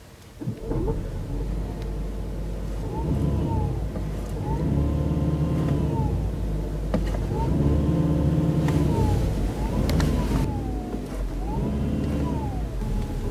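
A 2013 Ford C-Max hybrid's four-cylinder gasoline engine starts up about half a second in. It is then revved up and let back down about five times, each rev a rise and fall in pitch.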